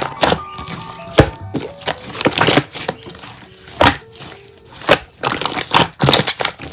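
Slime being pressed and poked, giving irregular sharp clicks and crackles, over soft background music with a few held notes.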